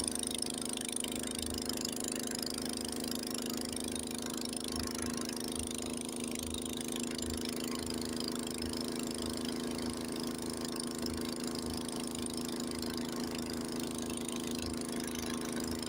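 Honda snowblower engine running steadily under load while clearing deep snow, its pitch and level holding even, with a steady hiss above it.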